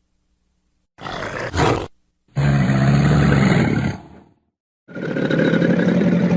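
Crocodile calling: three separate low, rough growling bellows, a short one about a second in followed by two longer ones.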